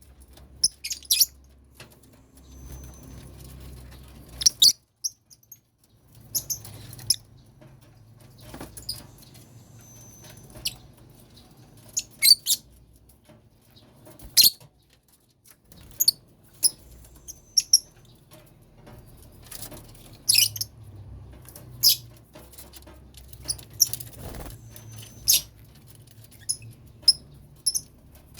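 Lovebirds in a colony cage giving short, shrill chirps and squeaks at irregular intervals, with a few brief whistled notes among them.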